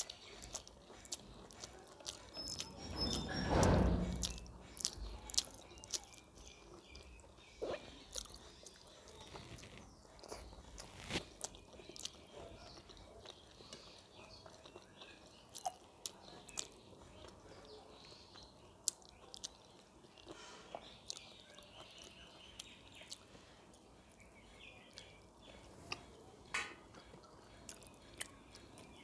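Close-up eating sounds: a person chewing and biting food, with scattered small crunches and wet mouth clicks. A louder, muffled low noise comes about three to four seconds in.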